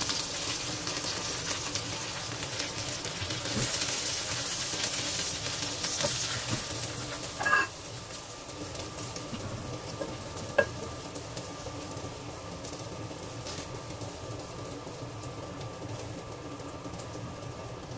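Egg and okra frying in hot oil in a pan, sizzling steadily, the sizzle easing after about eight seconds. Two sharp knocks of utensils on cookware, about seven and a half and ten and a half seconds in.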